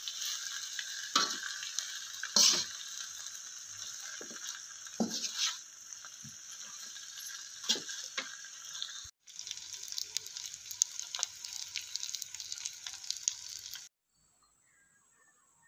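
Beans and sambal kerisik sizzling as they fry in a wok, with several scrapes of a metal spatula stirring through them. The sizzling stops abruptly near the end.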